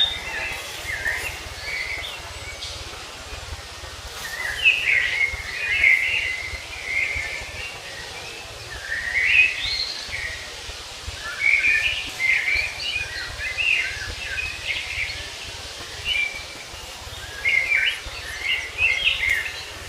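Songbirds singing in short bursts of quick, chirping notes every few seconds, over a steady low rumble.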